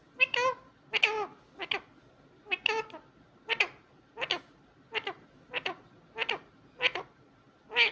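Indian ringneck parakeet giving a string of about eleven short, pitched calls, roughly one every two-thirds of a second, some bending down in pitch.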